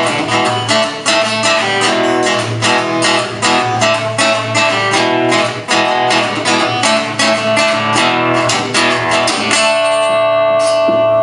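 Guitar strummed in a quick, even rhythm during an instrumental break of a song. About ten seconds in, the strumming stops and a chord is left ringing.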